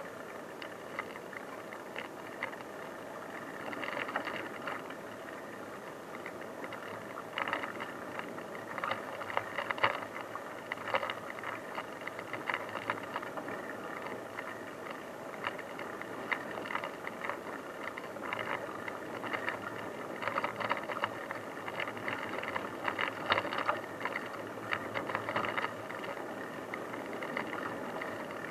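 Bicycle riding over a rough dirt track: steady tyre and wind noise, with frequent rattles and clicks from the bike as it goes over bumps.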